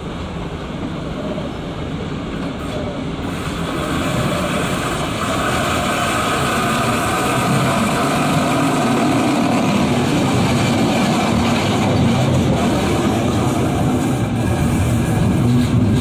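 DB class 143 electric locomotive hauling red double-deck regional coaches, rolling past close by; the rumble of wheels on rails grows louder from about four seconds in, with a faint steady whine partway through.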